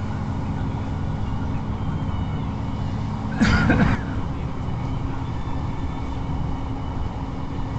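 Class 158 diesel multiple unit running at speed, heard from inside the carriage: a steady low engine drone and rumble of wheels on the rails. About three and a half seconds in there is a brief, louder burst of noise lasting about half a second.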